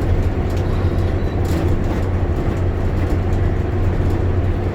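Bus interior on the move: a steady low engine drone and road noise, with occasional light clicks and rattles.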